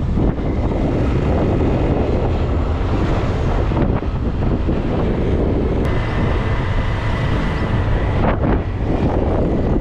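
Heavy wind buffeting the microphone, a loud steady rush with low rumble. A faint high tone joins it for about two seconds past the middle.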